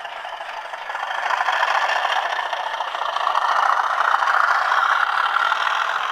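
Model Class 37 diesel locomotive running around a model railway layout, its wheels rattling over the track with a motor whir. It gets louder from about a second in as it comes closer and drops away near the end.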